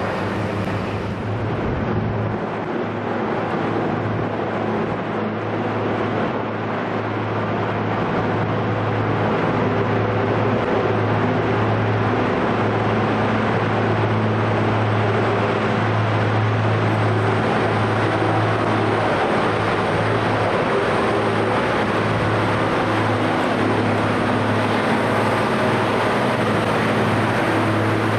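Diesel engine of an Atlas Copco Minetruck articulated underground haul truck running with a strong low drone, growing louder over the first ten seconds and then holding steady.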